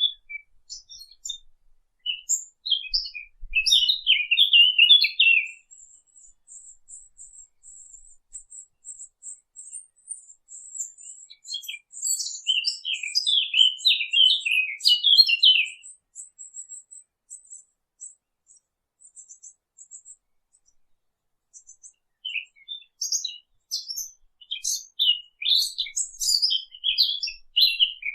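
Birds chirping: three spells of quick, high chirps, the first about four seconds in, one in the middle and a longer one near the end. Between the first two spells, a thin, very high twitter runs steadily.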